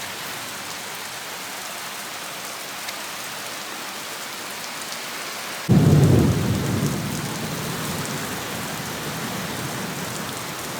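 Steady rain hissing, with a thunderclap about six seconds in that rumbles low and fades slowly over several seconds.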